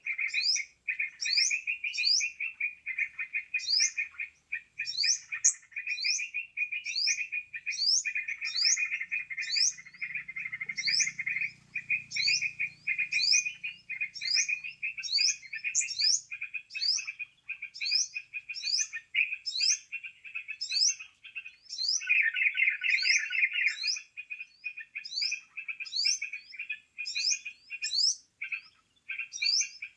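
Bird-trapping lure recording of chattering birds, played back: a continuous busy chatter with sharp, high rising chirps repeating a little more than once a second.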